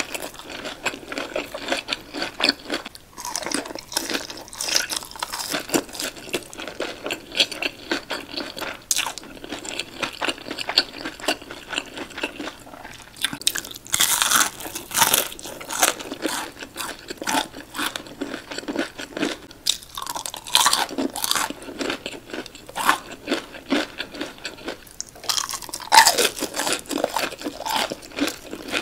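Crunching and chewing of breaded, deep-fried fish sticks: crisp, crackly bites into the coating, followed by wet chewing. Louder bursts of crunching come about halfway through, again a few seconds later, and near the end.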